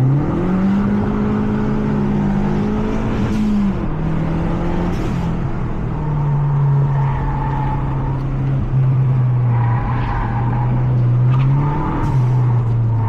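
Mazda 3 MPS's turbocharged 2.3-litre four-cylinder engine heard onboard at speed. Its note climbs quickly at the start and holds high, drops about three and a half seconds in, then runs lower and steadier with small rises and falls.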